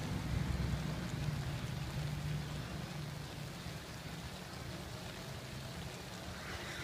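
Stir-fry of sliced cow organ and vegetables sizzling steadily in a wok on a portable gas stove, easing slightly, with a low steady hum underneath.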